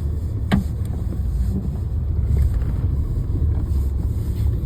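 A car running, heard from inside the cabin as a steady low rumble, with one sharp click about half a second in.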